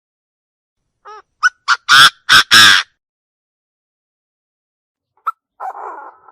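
Chinese francolin calling: a quick run of harsh, loud notes over about two seconds, the later ones longer, then after a pause a short note and a softer rasping call near the end.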